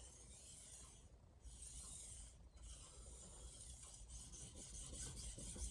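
Faint scraping of a steel knife edge stroked across a Shapton Glass whetstone, growing a little louder toward the end as the strokes begin in earnest.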